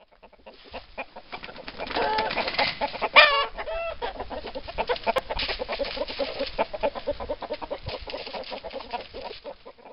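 Chickens clucking, a fast, continual run of clucks with one louder call about three seconds in.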